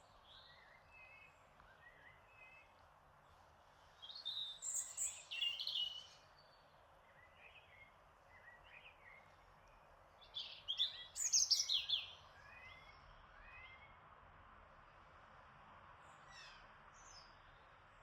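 Garden birds singing over a steady soft hiss of breeze: scattered short chirps throughout, with two louder bursts of song, one about four seconds in and another around ten to twelve seconds in.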